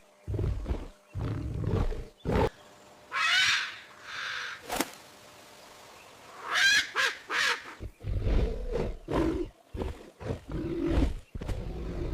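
Big cat growling in short, low, rough bursts at the start and again for the last few seconds. Two high, wavering calls break in around the middle, with a sharp click between them.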